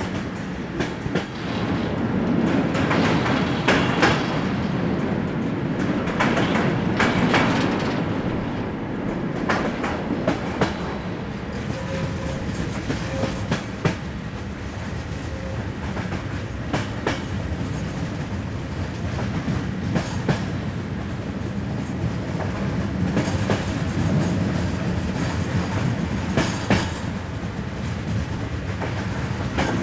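Passenger train carriage running along the line: a steady rumble with irregular clicks and knocks of the wheels passing over rail joints.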